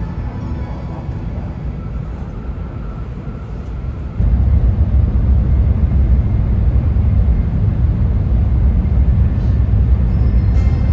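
Running noise of an N700-series Shinkansen heard inside the passenger cabin at speed: a steady low rumble that jumps suddenly louder about four seconds in and stays loud.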